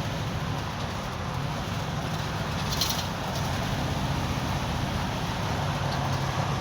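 Truck with a freshly rebuilt 700R4 automatic transmission, its engine running steadily with a low hum. A brief hiss comes about three seconds in.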